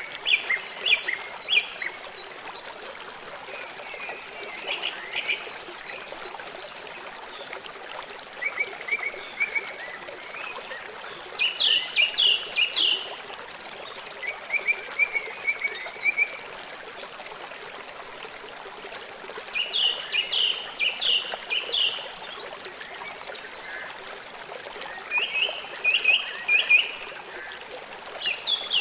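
Steady rush of a running stream, with short chirping calls in quick bursts of several notes every few seconds.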